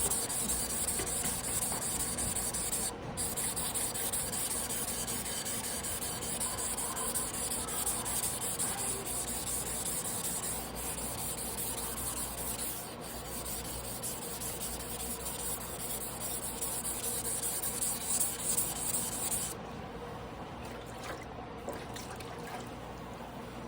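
Damascus carbon-steel sashimi knife blade being ground by hand on a whetstone, a steady gritty rubbing with two brief breaks, stopping abruptly near the end.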